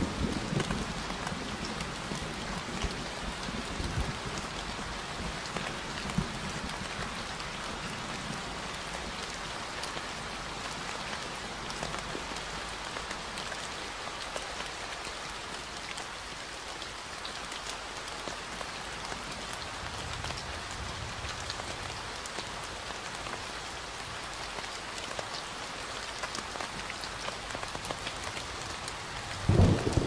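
Steady rain falling, an even hiss of drops, with low rumbles of thunder, the loudest swelling near the end.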